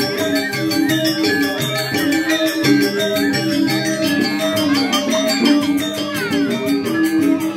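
Balinese gamelan playing: a melody of struck bronze notes that change quickly, over a fast, steady clashing of small cymbals.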